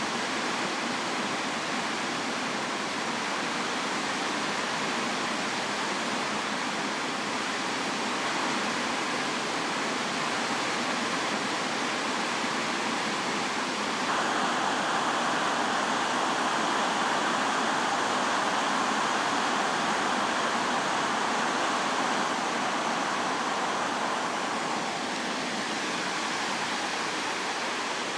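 Heavy rain pouring down in a storm, a steady rushing hiss that grows heavier about halfway through and eases a little near the end.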